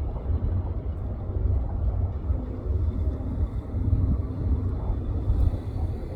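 Jet airliner's engines making a steady low rumble, with faint steady engine tones above it.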